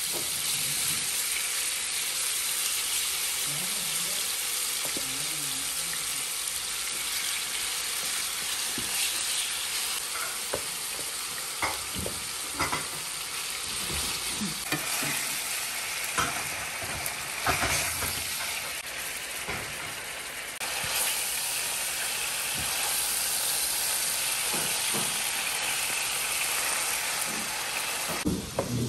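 Marinated chicken strips sizzling as they fry in oil in a nonstick skillet, with steady frying hiss. Metal tongs stir and turn the pieces, clicking and scraping against the pan, most often in the middle stretch and again near the end.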